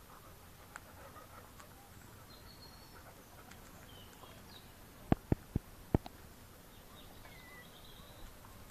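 Faint outdoor ambience with a few short bird chirps, and a quick run of four sharp clicks or taps about five seconds in.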